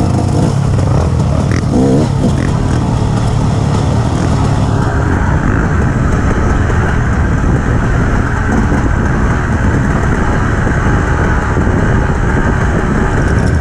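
KTM 250 EXC two-stroke dirt bike engine running steadily.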